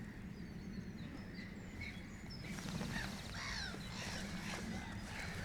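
Several small birds calling outdoors: many short chirps and brief gliding whistles, busier after about two and a half seconds, over a steady low rumble.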